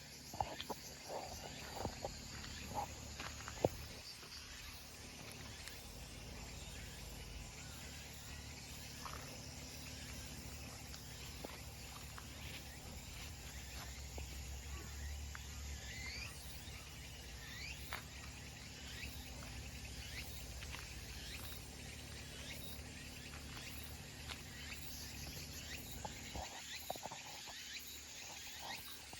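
Faint outdoor summer ambience of insects chirring steadily, with a few short rising chirps through the middle and scattered clicks in the first few seconds and again near the end.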